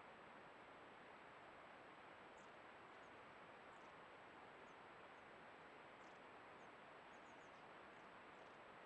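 Near silence: a steady hiss, with faint, short high chirps from small garden birds scattered through.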